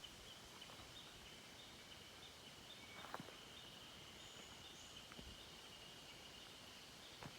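Near silence: faint outdoor ambience with a steady high-pitched trill, broken by two soft clicks, one about three seconds in and one near the end.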